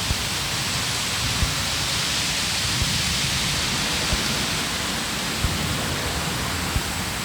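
Steady hiss of noise, with a few faint ticks scattered through it.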